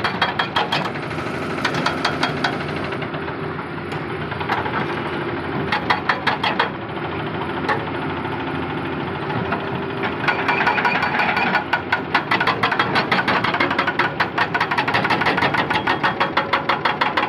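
Hydraulic excavator's diesel engine running, with a fast, regular clatter that grows stronger about ten seconds in.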